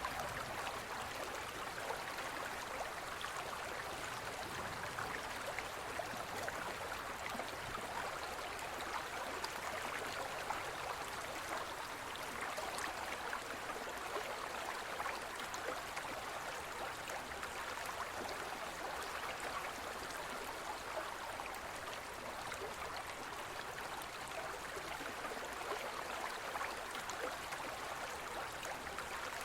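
Gentle forest stream flowing steadily over stones, a constant babbling rush of water.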